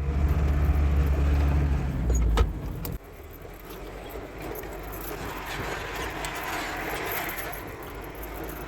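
Truck engine running with a loud, steady low drone for the first two and a half seconds, then cutting off abruptly about three seconds in, leaving a softer steady rustling noise.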